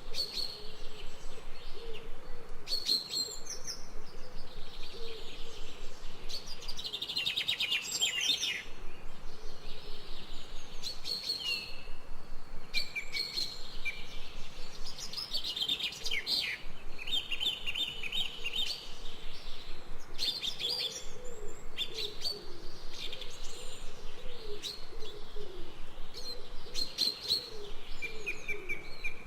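Several birds calling together: bursts of quick, high chirps and trills every second or two, over a lower, repeated warbling call.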